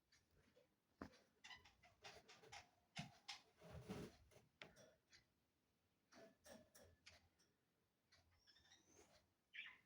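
Faint ticks and taps from pet budgies, with a few soft short chirps near the end.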